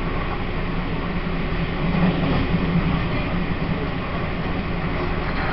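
Steady rumble and low hum of a Taiwan Railways E1000 push-pull Tze-Chiang express, heard inside a passenger car.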